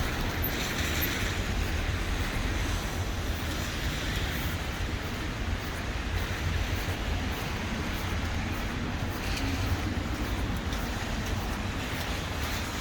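Steady city street noise with traffic running past, a continuous low rumble and no distinct single events.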